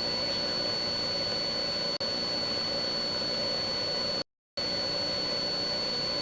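Police helicopter's turbine engine and rotors running steadily, with a constant high turbine whine over the hum. The sound cuts out completely for a moment a little over four seconds in.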